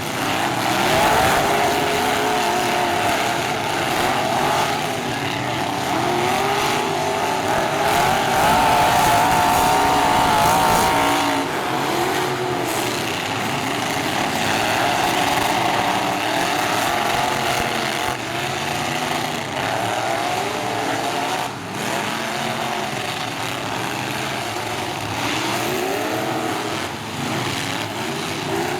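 Several full-size demolition-derby trucks' engines revving hard and rising and falling in pitch over one another, with a sharp bang from a collision about three-quarters of the way through.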